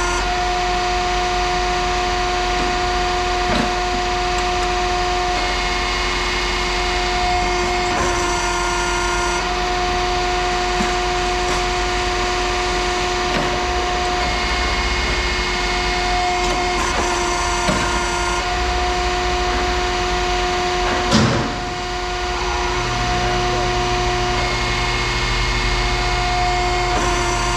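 A machine running with a steady hum, with scattered knocks and one loud clank about 21 seconds in.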